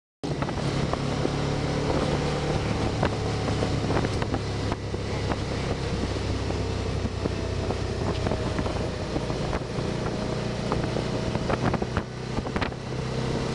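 Can-Am Spyder three-wheeled motorcycle engine running steadily while riding, with wind noise on the microphone.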